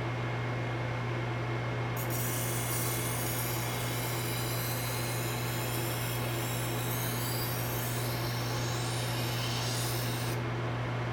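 Belt grinder running steadily, with a workpiece pressed against the moving belt from about two seconds in until shortly before the end, giving a hissing grind whose pitch sweeps as the piece is moved.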